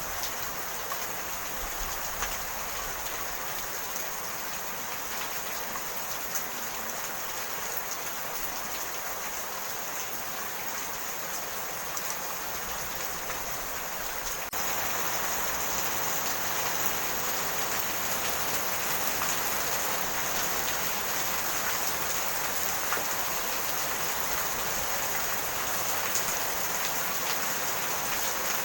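Steady rainfall, an even hiss of drops, growing a little louder about halfway through.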